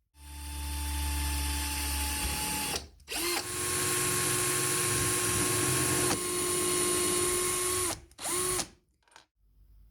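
Handheld electric power tool running in three bursts, each spinning up quickly to a steady pitch and stopping sharply: about three seconds, then a longer run of nearly five seconds, then a short half-second burst.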